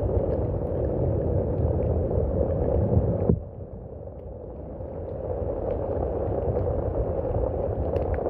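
Steady rain with scattered drop ticks. It drops off suddenly about three seconds in, then swells back up over the next couple of seconds.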